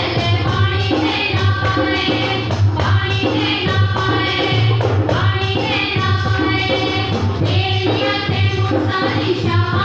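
Punjabi worship song: voices singing held notes over backing music with a steady low beat.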